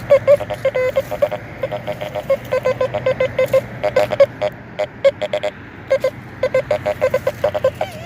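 Teknetics T2SE metal detector chattering: a rapid, choppy string of short beeps as the sharpshooter coil sweeps over ground full of iron trash at discrimination level 10. It sounds like machine guns.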